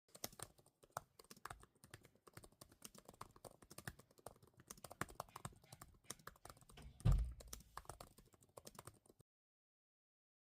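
Fast, continuous typing on a computer keyboard, many keystrokes a second, with one heavier low thud about seven seconds in. The typing stops about nine seconds in.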